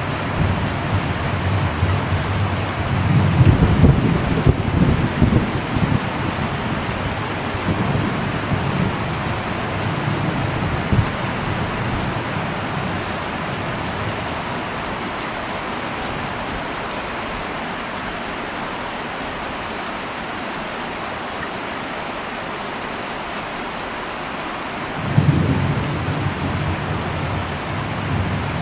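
Heavy rain falling on an old metal roof, a steady hiss, with thunder rumbling low about three seconds in, fainter rolls a few seconds later, and another rumble starting near the end.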